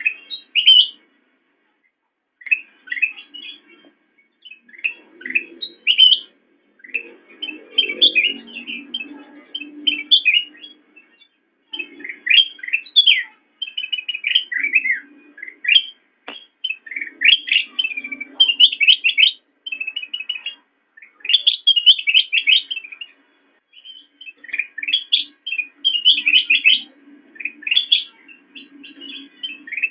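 Kutilang emas bulbul singing: a long run of quick, chattering whistled phrases, each a second or two long, separated by short pauses.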